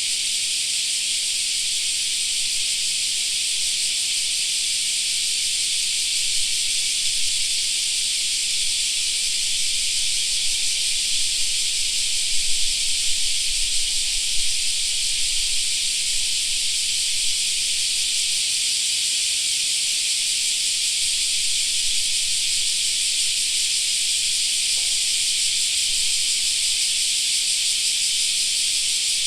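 Chorus of cicadas in summer: a steady, dense, high buzzing drone that never lets up, with a brief low rumble near the middle.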